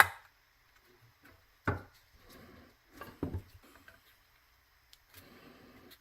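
Hard objects knocked and handled on a work surface: a sharp knock at the start, two duller knocks about two and three seconds in, and soft shuffling between.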